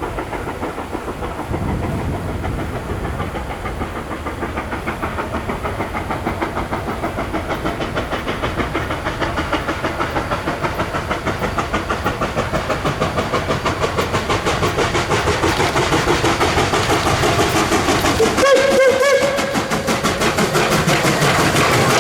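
Reading & Northern 4-8-4 steam locomotive 2102 approaching and passing, a fast, even chuffing beat and rail noise growing steadily louder. A brief pitched tone sounds about eighteen seconds in as it goes by.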